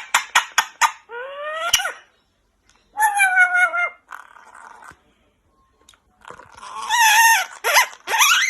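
Pet parrot making a quick run of sharp clicks, then a series of separate calls that rise and waver in pitch, with a short pause in the middle.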